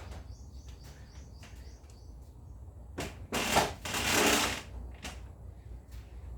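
Light clicks and knocks of household objects being handled, then a louder rustling or scraping noise about three seconds in that lasts over a second.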